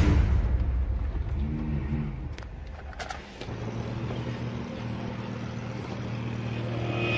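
A car engine running, with a brief rise and fall in revs about a second and a half in. From about three and a half seconds in it settles into a steady hum, with a few faint clicks along the way.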